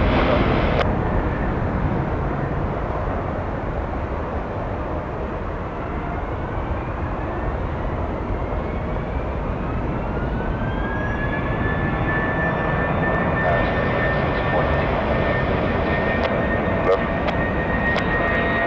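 Airbus A321-200 jet engines spooling up for takeoff over a broad jet rumble: a whine rises over several seconds, then levels off into a steady high tone at takeoff thrust.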